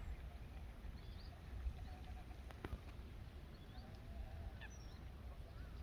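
Faint, scattered calls of waterfowl, short chirps and honks, over a low wind rumble on the microphone. There is a single sharp click about two and a half seconds in.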